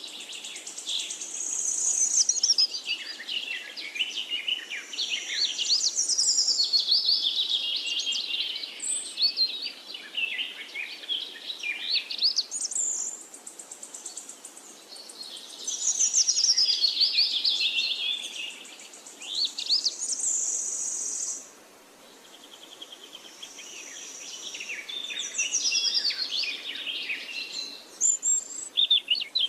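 Small birds chirping and twittering in long, busy bouts of quick rising and falling calls, with short lulls about halfway through and again about two-thirds of the way in.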